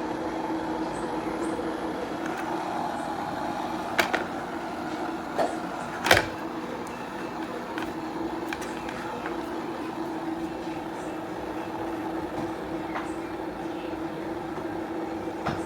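Stainless steel electric kettle heating water just after being switched on: a steady hum and hiss that starts suddenly, with a few sharp clicks or ticks in the first half.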